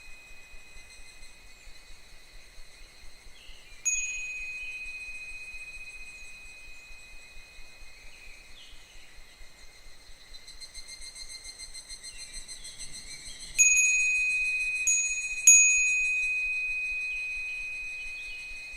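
Japanese wind bell (fūrin) ringing in the breeze with a high, steady ring: struck sharply about four seconds in, then three times in quick succession near the end, each strike fading slowly. Evening cicadas (higurashi) call faintly behind it in short falling phrases.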